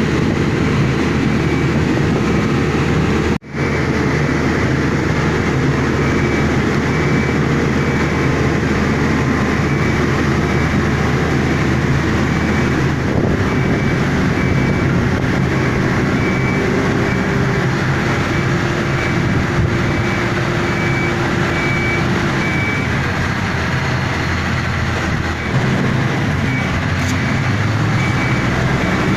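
Heavy diesel machinery running steadily under load as it lowers a fishing boat, with a high warning beep repeating over it. The sound cuts out for a moment about three and a half seconds in.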